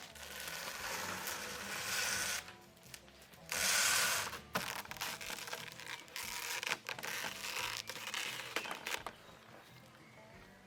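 Crunching and crackling in irregular bursts, the loudest about a second long near four seconds in, then scattered crackles and clicks, over faint background music.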